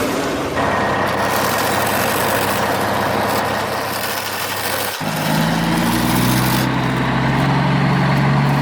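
Engine sound of a radio-controlled model truck. For the first five seconds it runs as an even rushing noise; then it breaks off suddenly and gives way to a steady, deeper engine hum.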